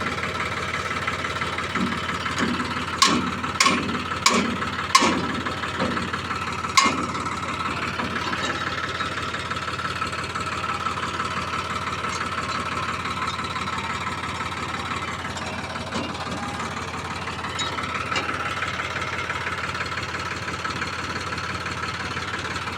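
Tractor engine idling steadily, with five sharp knocks in quick succession between about three and seven seconds in.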